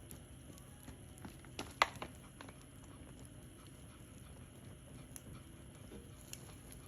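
Wood fire crackling, with scattered small snaps and a louder pop a little under two seconds in.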